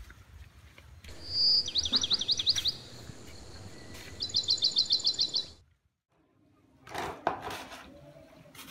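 A songbird singing: a short high whistle, then two quick trills of repeated high notes at about ten a second, a couple of seconds apart. The song and its background hiss stop abruptly, and after a short gap come soft clicks and rubbing.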